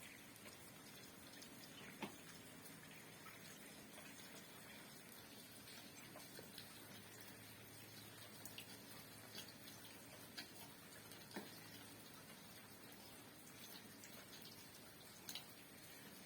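Faint night rain: a soft steady hiss with scattered single drops ticking at irregular intervals, a little more than one every second or two.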